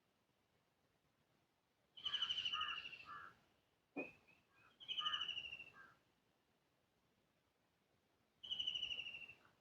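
A bird repeats a short trilled call three times, about three seconds apart, each call falling slightly in pitch. A sharp tap sounds about four seconds in, followed by a few short chirps.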